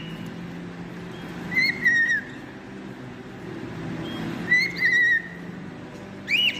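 A caged bird whistling: two similar warbling whistles a few seconds apart, then a short rising whistle near the end. A steady low hum runs underneath.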